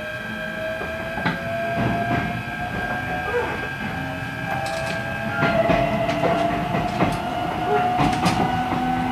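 E129-series electric train's Toyo IGBT inverter and traction motors whining as it accelerates, the whine rising steadily in pitch, over wheel clicks on the rails. About five and a half seconds in, the higher tones shift and the running sound grows a little louder.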